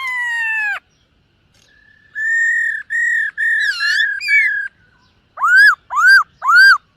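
Black-throated laughingthrush singing clear whistled phrases: a long falling whistle, then a run of four level notes, then three short notes that rise and fall near the end.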